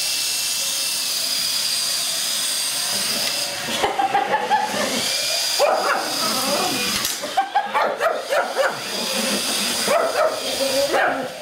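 A shih tzu barking in repeated bursts, starting about three and a half seconds in, over the steady high whine of a radio-controlled car's electric motor.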